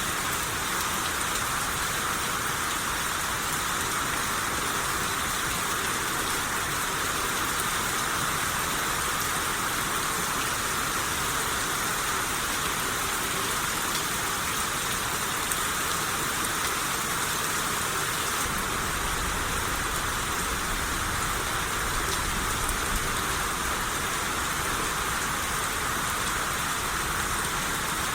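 Steady rain shower falling, an even hiss of rain on surfaces. A low rumble comes in beneath it about two-thirds of the way through.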